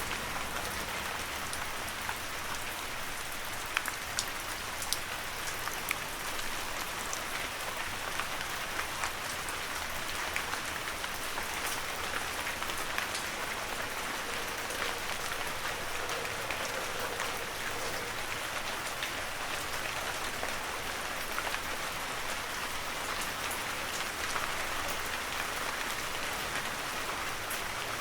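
Heavy rain falling steadily, a dense hiss with many sharp individual drop ticks on the surface.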